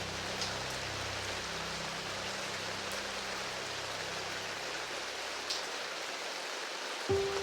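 Steady rain falling, with a few louder drips. Low piano notes die away over the first few seconds, and a new piano phrase begins right at the end.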